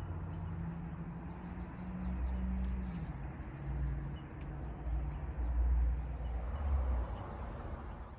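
Wind rumbling on the microphone in uneven gusts, over a low steady hum like a distant vehicle engine that drops in pitch about three seconds in.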